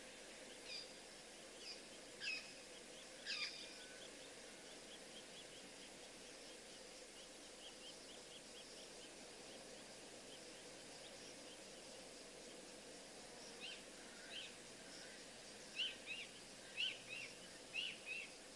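Birds calling faintly: short, sharp descending chirps in a few clusters near the start and again near the end, over a steady hiss, with a faint run of quick ticks in between.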